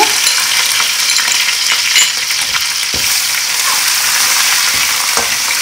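Ginger-garlic paste and fried onions sizzling in hot oil in a metal karahi, with a steady hiss, while a metal slotted spoon stirs them and knocks against the pan a few times.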